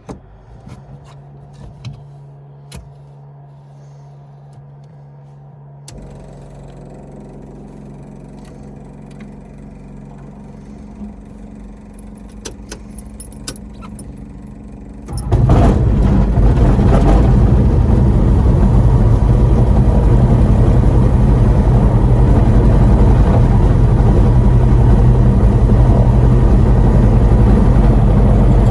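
Diamond DA20 Katana's piston engine starting from cold: scattered switch clicks over a faint electrical hum, then about halfway through the engine catches and settles into a loud, steady run.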